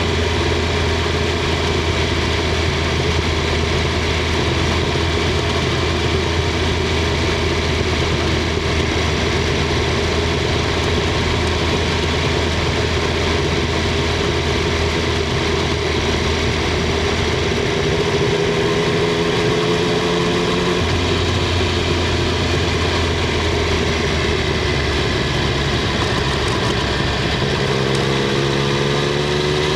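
Triumph Street Triple 765 R's three-cylinder engine and exhaust running at a steady, low, even note for most of the stretch, with a brief change in pitch about two-thirds through. Near the end the revs rise as it accelerates.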